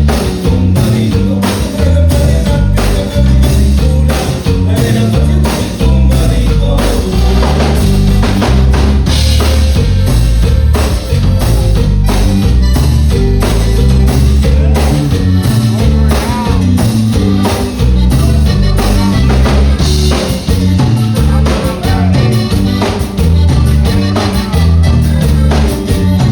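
A Tejano band playing loudly live, with a steady drum-kit beat, a stepping bass line and guitar.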